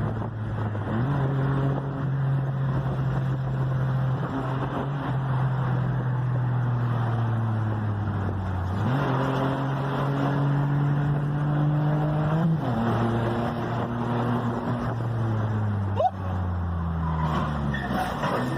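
Car engine running, its revs rising and falling several times with sudden jumps and drops in pitch. There is a single sharp knock about sixteen seconds in.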